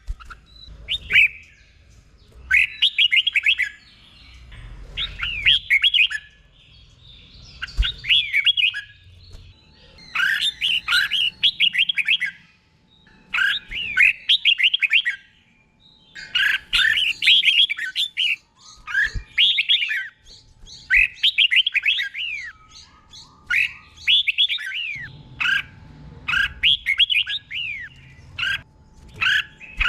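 Red-whiskered bulbul singing: short, quick warbling phrases, one about every second and a half, in the doubled 'เบิ้ล' style prized in caged song birds.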